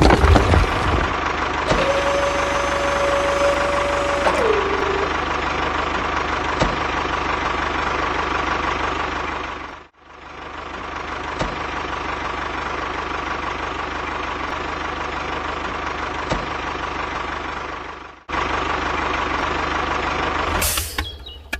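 Small motor of a miniature model construction machine running steadily with a thin whine. It cuts out abruptly twice and picks up again each time. Near the start a steady tone sounds for a couple of seconds and dips in pitch as it stops.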